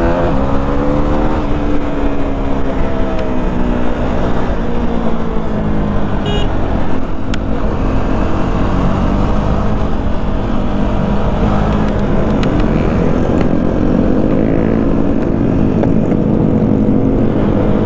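KTM Duke's single-cylinder engine under the rider at road speed, its note dropping in the first couple of seconds as the throttle eases, then climbing again in the second half, over a steady rushing noise of wind and road.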